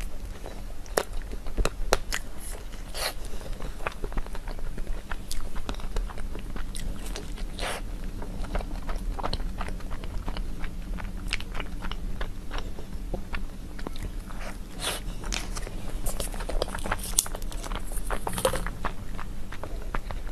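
Close-miked biting and chewing of chocolate-coated xuemeiniang, a snow-skin mochi with cream filling: soft bites with many scattered sharp mouth clicks and smacks throughout.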